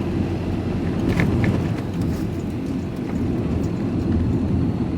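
Van engine and tyre rumble heard from inside the cab while driving steadily at low speed, with a few faint ticks about a second in.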